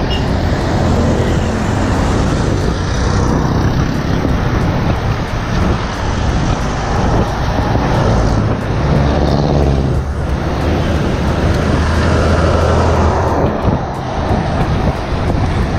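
Steady wind rush and low rumble on a GoPro Hero5's microphone while a road bike is ridden along a road.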